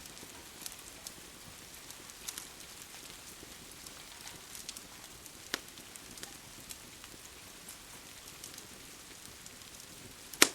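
Steady rain hiss under a crackling wood fire, with scattered sharp pops; one pop about halfway through is stronger and one near the end is much louder than the rest.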